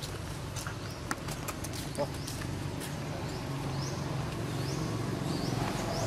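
Outdoor ambience: a bird repeats a short rising chirp about every 0.7 seconds over a steady low hum, with a few faint clicks.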